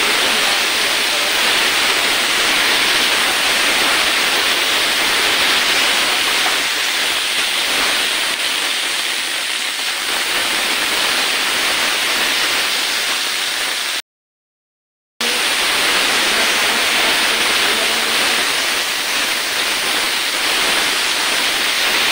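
Masala paste, potatoes and brinjal sizzling steadily as they fry in hot oil in a pan. The sound cuts out for about a second about two-thirds of the way through, then resumes unchanged.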